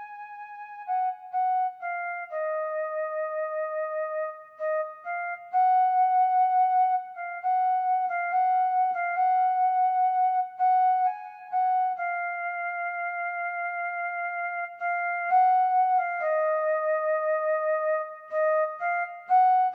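Music: a solo flute-like wind instrument playing a slow melody one note at a time, some notes held long with a slight vibrato.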